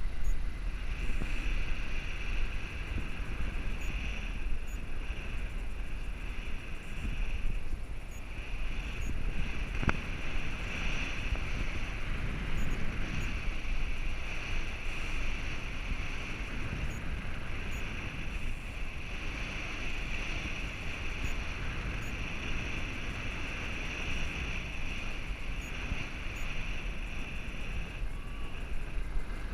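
Steady wind noise on the microphone over a constant motorboat drone, with no breaks or sudden sounds.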